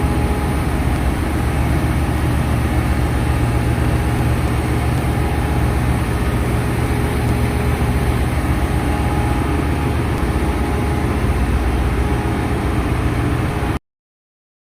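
Ship's engine-room machinery running steadily: a loud, even engine drone with a deep hum and a few steady whining tones above it. It cuts off suddenly near the end.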